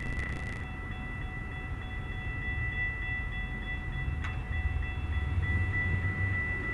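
Freight train running by with a low rumble, under a steady high-pitched ringing tone. A single click comes about four seconds in.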